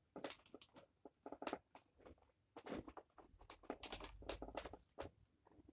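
Power cord being wound around the cord hooks of a Dyson DC07 upright vacuum: quiet, irregular rustles of the cable and light clicks against the plastic body.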